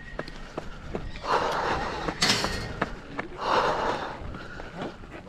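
A runner's heavy breathing on a steep uphill trail, one long breath about every two seconds, with quick footsteps between the breaths. About two seconds in comes one sharp, hissy blast of breath.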